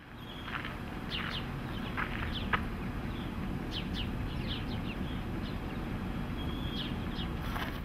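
Birds chirping in short, quick falling calls over a steady low rumble of outdoor background noise. The sound fades in at the start and fades out at the end.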